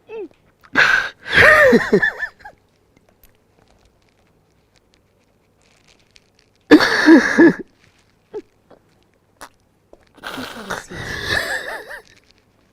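A man sobbing in short, breathy outbursts with a wavering voice, four bursts about a second long with pauses between them.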